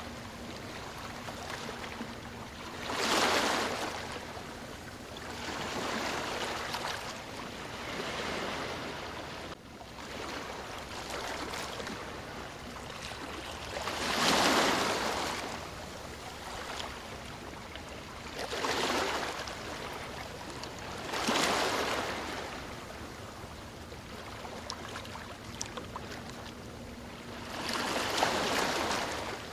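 Ocean waves washing in: a steady hiss of surf that swells into a louder rush every few seconds as each wave breaks, the strongest about halfway through.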